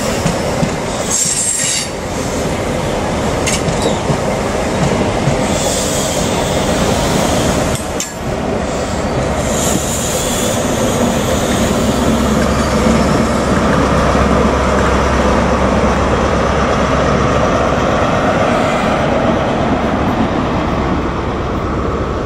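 CrossCountry High Speed Train (InterCity 125) running past: its Mark 3 coaches roll by with steady wheel and rail noise and brief high squeals. Then, about halfway through, the diesel engine of the rear Class 43 power car adds a low drone as it passes, easing off near the end as the train draws away.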